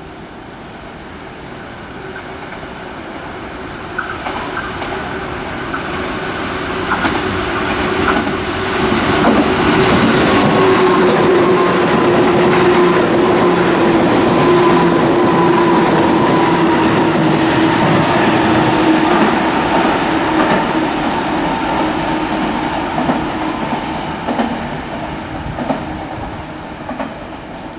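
Tobu 10000-series electric commuter train passing at close range: wheels clicking over rail joints under a steady hum that slides slightly lower in pitch, growing louder to a peak about ten seconds in and fading toward the end.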